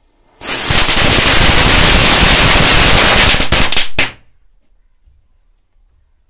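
Firecrackers going off in a fast, continuous string of loud bangs for about three and a half seconds. The string ends with a few separate cracks and then stops suddenly.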